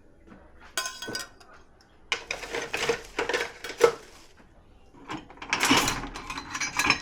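Dishes and cutlery clinking and clattering as they are handled in a dishwasher's racks. There is a short clatter about a second in, a longer run of clinks from about two to four seconds, and another run near the end.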